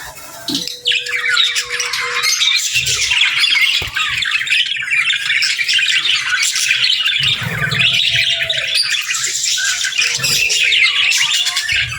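Budgerigars chattering: a dense, continuous warble of high chirps and squawks.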